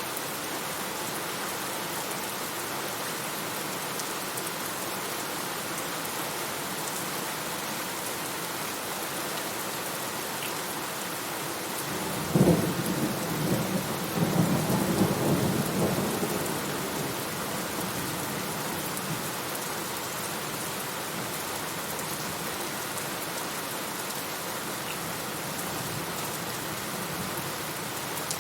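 Steady heavy rain hissing, with one peal of thunder about halfway through: a sharp crack followed by a rolling rumble that swells again and fades away within about five seconds.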